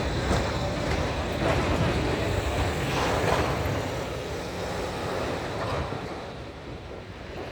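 A Zagreb tram passing, a steady rumble of wheels on rail with a few clicks, fading away over the last few seconds.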